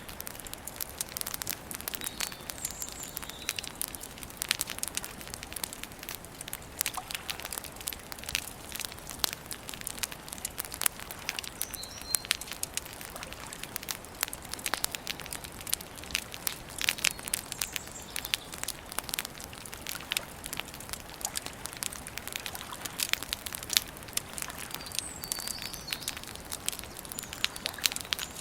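Wood campfire crackling steadily with frequent sharp pops, and a few short bird chirps now and then.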